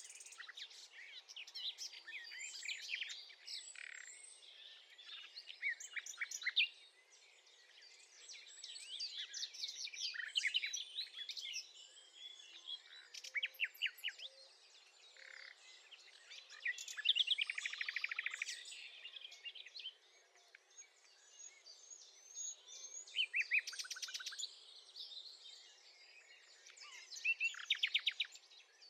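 Common nightingale singing: a long run of varied phrases of whistles and chirps, broken by fast rattling strings of rapidly repeated notes, with short pauses between the louder bursts.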